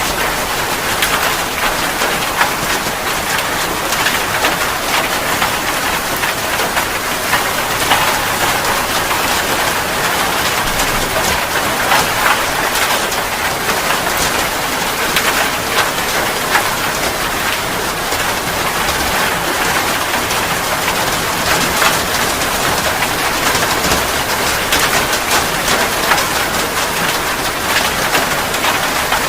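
Steady heavy rain falling on a surface: a dense, even hiss of rain with countless small drop impacts pattering through it.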